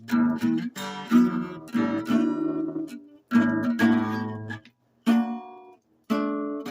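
Acoustic guitar played slide-style, struck chords ringing out and fading in short phrases, with two brief silent pauses about halfway through.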